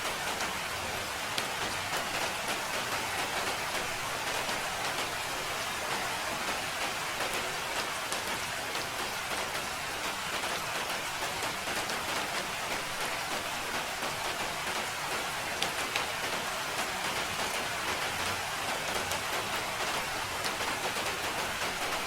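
Steady, even rain falling on a surface, a constant hiss with many small drop ticks throughout.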